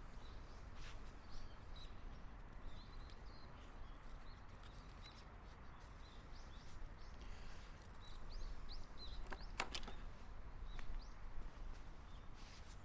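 Small birds chirping faintly over a low background hiss, with a sharp click about ten seconds in.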